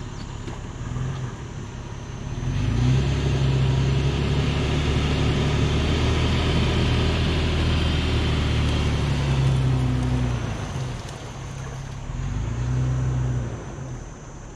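4x4 vehicle's engine revving hard under load for several seconds as it pushes through deep soft mud, easing off and then revving briefly again near the end.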